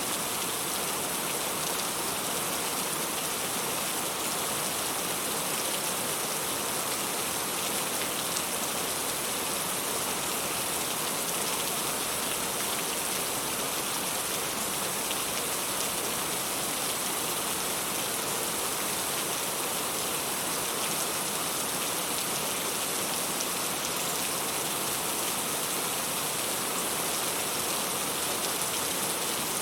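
Steady rain falling on surfaces: an even hiss of many drops that does not change.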